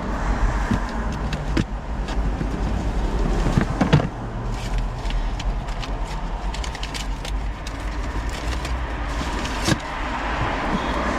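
Notebooks and papers being handled and stacked: scattered clicks, taps and rustles, with a louder knock about four seconds in, over a steady low rumble of road traffic.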